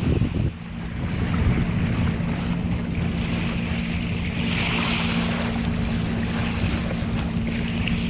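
Wind buffeting the microphone and water rushing past a moving boat, with a steady low hum that starts about half a second in.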